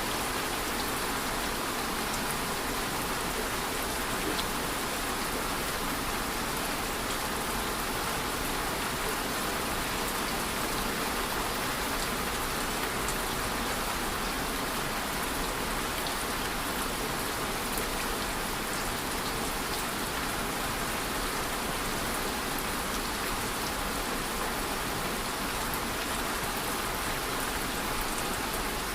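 Steady rain falling, an even hiss with fine scattered drop ticks, no change in strength.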